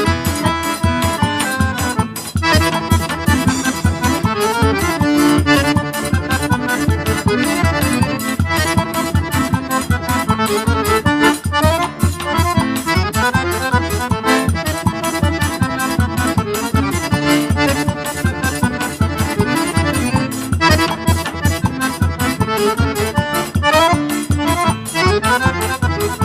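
Instrumental accordion music in a traditional style, played over a quick, steady beat.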